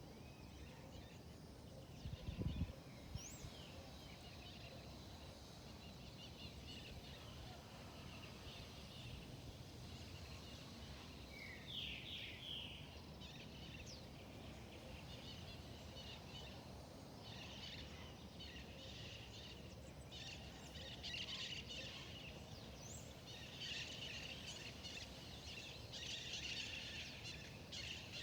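Wild birds chirping and calling over a steady low background rumble, the calls getting busier through the second half. A short low thump about two seconds in.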